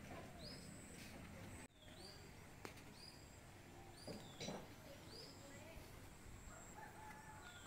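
Faint birdsong: a short high chirp repeated about once a second, with a few lower calls, over a steady high-pitched hum.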